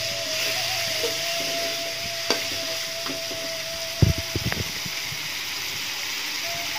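Spice paste sizzling in hot oil in a metal wok while a metal spatula stirs it, scraping and knocking against the pan a few times, the loudest knocks about four seconds in. The paste is being sautéed until fragrant.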